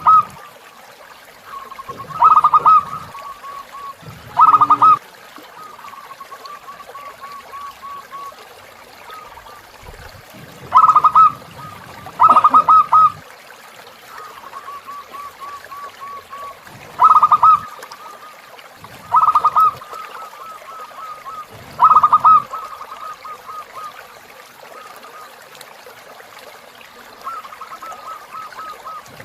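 Zebra doves (perkutut) cooing: about seven loud bursts of quick rolling coos, with softer rapid cooing trills between them. A faint trickle of river water runs underneath.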